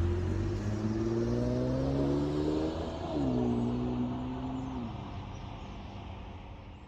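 Infiniti Q50 Sport with a Rev9 high-flow cat-back exhaust accelerating. The exhaust note rises in pitch, drops sharply about three seconds in as the car shifts up, climbs again briefly, then fades away as the car drives off.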